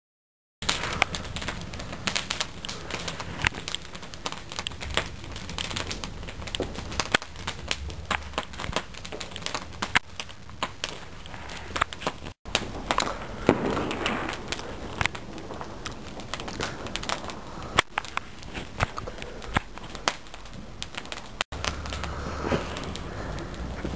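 A bonfire burning, crackling and popping steadily with many sharp snaps over a low rumble.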